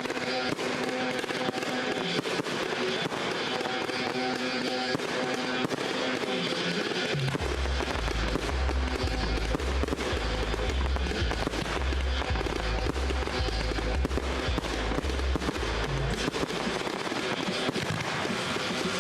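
Fireworks banging and crackling over music; a heavy bass beat comes in about seven seconds in and drops out about sixteen seconds in.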